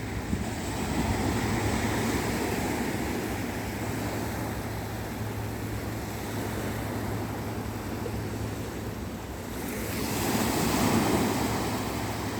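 Adriatic Sea waves washing in, with wind on the microphone. A wave surges louder about ten seconds in, then subsides.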